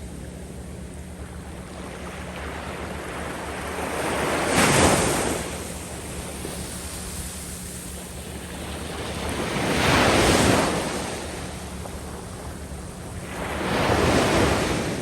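Waves washing up over a sandy beach: three surges of surf, each building and then falling away, about every four to five seconds, over a steady low wash of sea noise.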